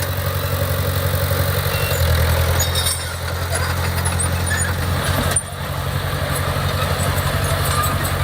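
Diesel engine of heavy construction equipment running steadily with a low, pulsing hum. It gets louder for about three seconds from about two seconds in, then dips briefly.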